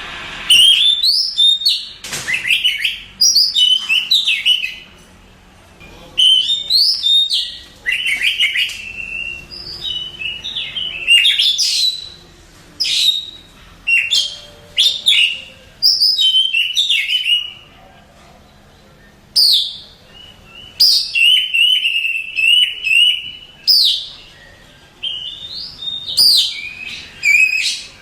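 Oriental magpie-robin (kacer) singing a loud, varied song of whistles, rapid trills and sharp high notes in phrases of a second or two, separated by short pauses.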